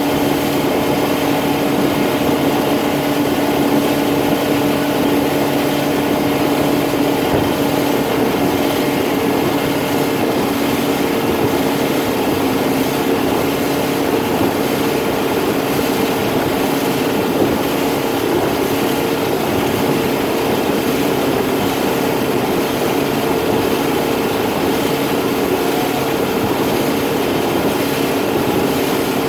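Fishing boat's motor running steadily under way, an even hum over a constant rush of noise.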